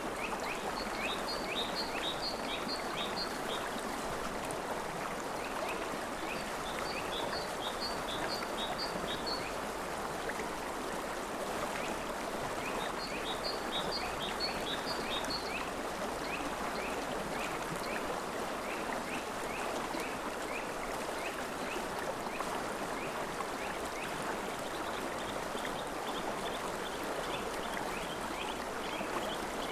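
A river flowing steadily, with a small bird calling over it in repeated quick runs of short, high chirps.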